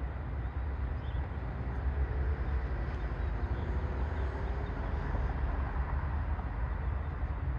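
Metra commuter train approaching with its cab car leading: a low, steady rumble.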